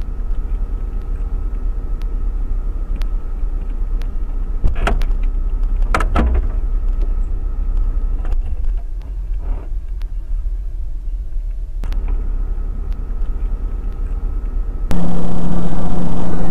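Steady low road-vehicle rumble, with a few short louder sounds a third of the way in. Near the end it cuts abruptly to a much louder, steady engine drone.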